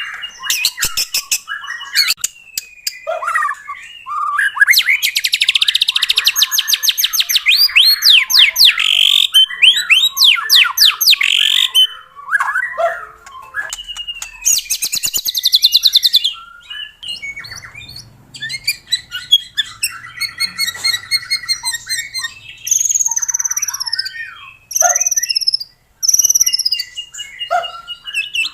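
White-rumped shama (murai batu) singing a loud, varied song without pause. It runs through rapid trills and chattering runs, clear whistles, and several downward-slurred whistled notes in the last third.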